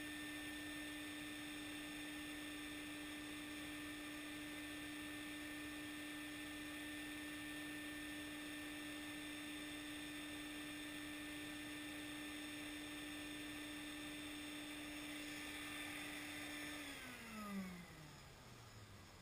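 Stinger wet/dry shop vacuum's motor running with a steady whine, then switched off about seventeen seconds in, its pitch falling as it spins down.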